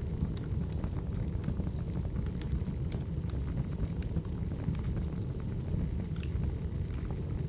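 Firewood burning, with a steady low rumble and scattered sharp crackles and pops at irregular moments.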